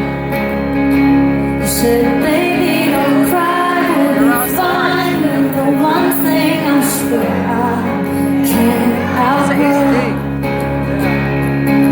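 Live pop music: a woman singing a slow melody over instrumental backing.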